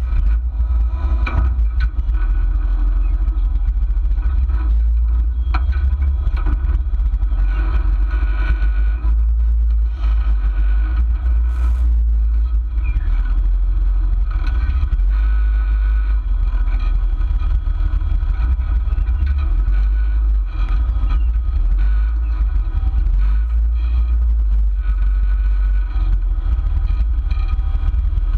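Jeep's engine running under load as it crawls up over rocks on an off-road trail, picked up through a hood-mounted camera as a heavy, steady low rumble.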